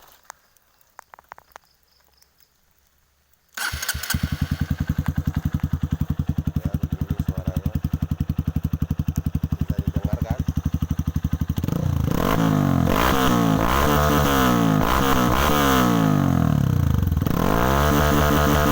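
Honda CRF trail bike with a Thai-made CMS aftermarket exhaust starting up about three and a half seconds in and idling with an even pulse. From about twelve seconds it is revved up and down several times, then held at a raised, steady idle near the end.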